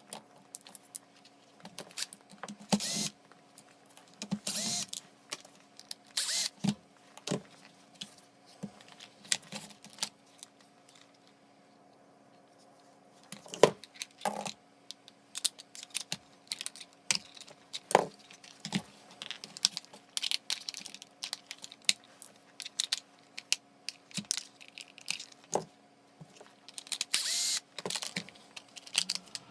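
Irregular clicks, taps and a few short scraping rustles of small parts being handled during work on a cordless hammer drill, over a faint steady hum.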